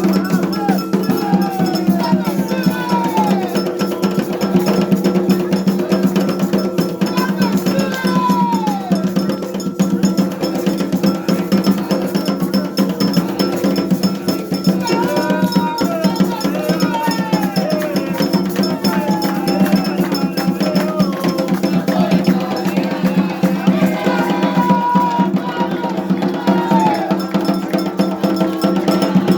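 Afro-Brazilian ritual percussion: hand drums with a clanging metal bell, played in a dense, unbroken rhythm.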